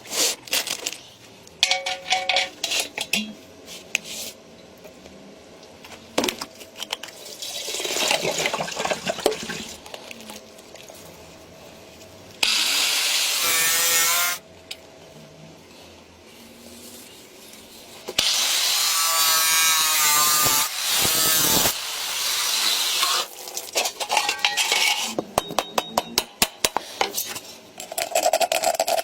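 Hand and power tools working sheet metal: a run of taps, clicks and scraping, broken by two long bursts of harsh hiss, the first about twelve seconds in and the second about eighteen seconds in.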